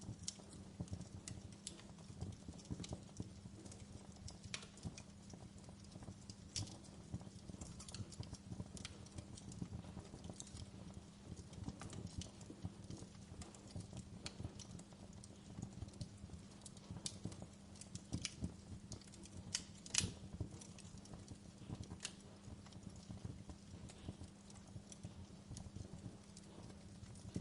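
Wood fire crackling: a steady low burning sound with frequent sharp pops and snaps, the loudest crack about twenty seconds in.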